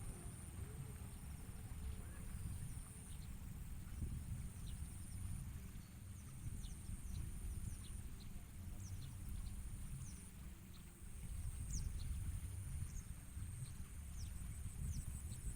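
Bar-winged prinias giving short, high, falling chirps, scattered and most frequent in the second half. Under them runs a steady low rumble, with a thin high insect-like buzz that pulses quickly near the end.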